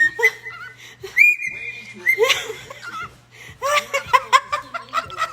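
A talking pet bird whistling and chattering. It holds a couple of steady whistled notes, makes a burst of noisy chatter about two seconds in, then gives a quick run of short chirps and clucks near the end.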